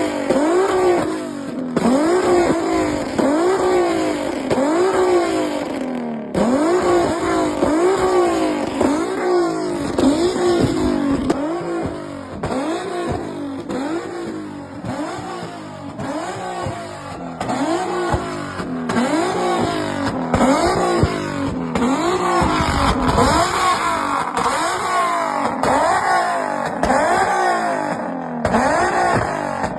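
Engines revved over and over in a rev battle: the pitch climbs and drops back about once a second, with no pause.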